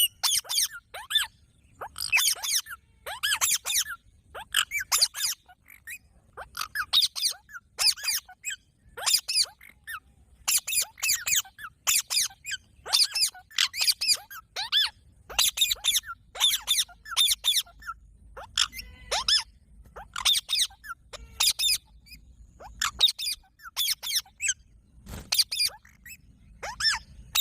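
Green parrot giving rapid series of short, shrill squeaky calls, in quick clusters with brief gaps, over and over.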